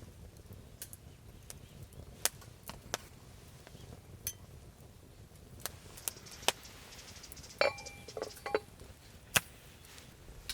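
Scattered sharp knocks and clicks, irregular, with a brief ringing clink, like metal or glass, about eight seconds in.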